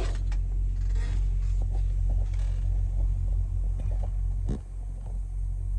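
Semi truck's diesel engine idling, a steady low rumble, with a brief click about four and a half seconds in.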